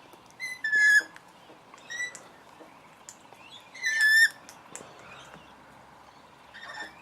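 Parrots calling: four short, harsh squawks, the loudest about one second and four seconds in, with fainter chirps between.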